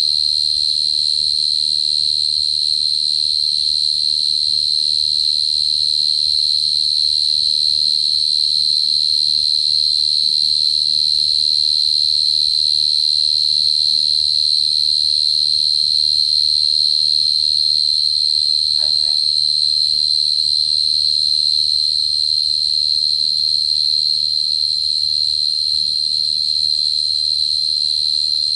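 Dế cơm short-tail field cricket (Brachytrupes portentosus) trilling without a break in one steady high-pitched tone: the male's calling song, used as a lure to draw crickets in.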